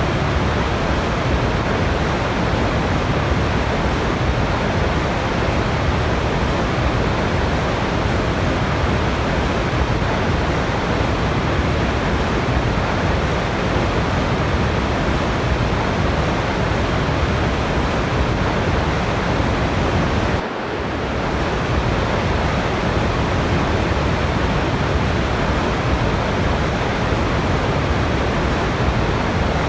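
Waterfall water rushing in a steady, dense roar with no breaks, dipping briefly about two-thirds of the way through.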